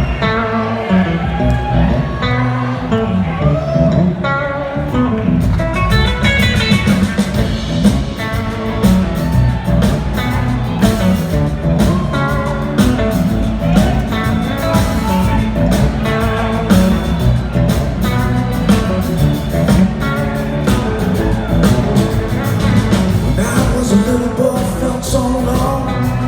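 Live blues-rock band playing an instrumental passage, guitar lines over bass, with drums and cymbals coming in about five seconds in.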